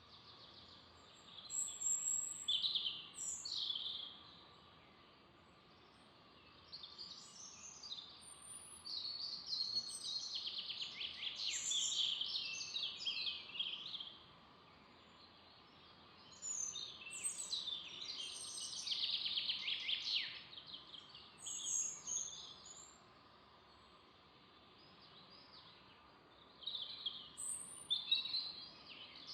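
Songbirds singing in bouts of a few seconds each, made of quick trills and fast downward sweeps, with short quieter gaps between bouts over a low background hiss.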